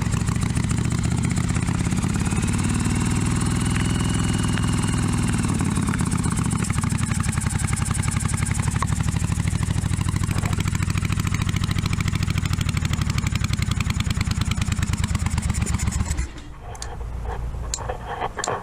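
1982 Yamaha Virago 750's V-twin engine running steadily on choke, then dying abruptly near the end as the carburettor float bowl runs dry. A few faint clicks follow.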